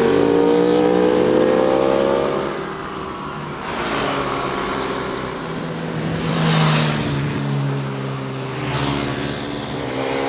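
Motorcycles passing by one after another. An engine note falls away as one goes past, then a few more swell and fade in turn, and another engine note rises near the end.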